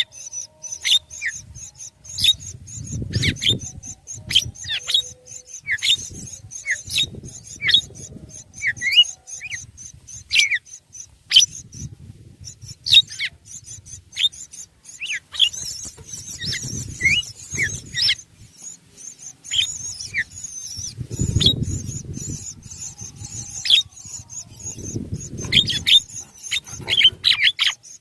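Birds chirping: many short, high calls, most sliding down in pitch, over a steady high hiss, with low rumbles coming and going.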